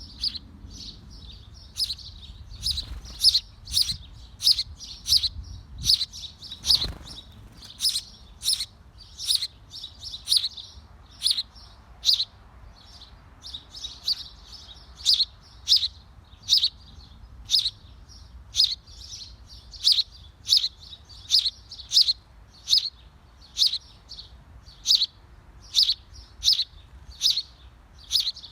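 A bird chirping over and over: short, high chirps repeated at an even pace of about three every two seconds.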